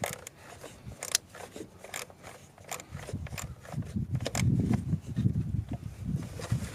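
Scattered sharp clicks and light scrapes of hand tools and parts being handled while working in a car's engine bay, with a denser stretch of low handling noise about four seconds in.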